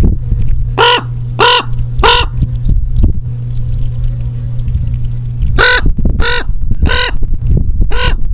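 A large black corvid, crow or raven, cawing harshly. It gives a run of three caws about half a second apart, then after a pause of about three seconds a second run of four. A steady low hum and rumble run underneath.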